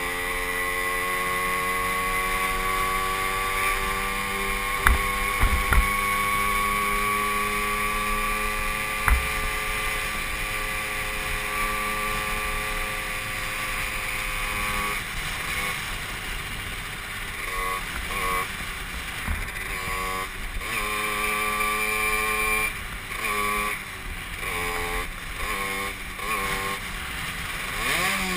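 Derbi Senda moped's engine under way, its note climbing slowly and steadily for about the first half, then broken up as the throttle is rolled on and off. A few sharp knocks come a few seconds in.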